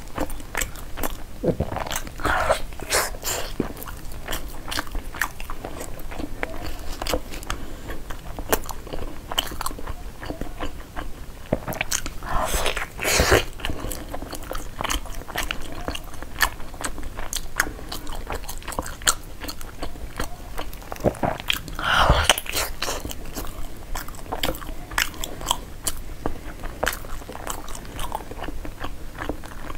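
Close-miked chewing, biting and mouth clicks from eating a glutinous-rice zongzi, with its leaf wrapper crinkling as it is peeled back. Three louder moments stand out, about two, thirteen and twenty-two seconds in.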